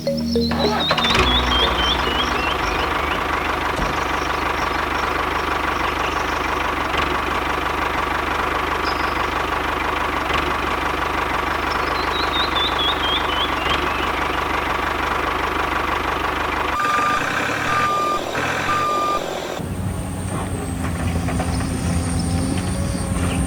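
Steady machine noise with a constant high whine, twice broken by a quick run of falling chirps. About 17 seconds in come three short, even beeps, and then the noise gives way to a different engine-like sound with a thin high whistle.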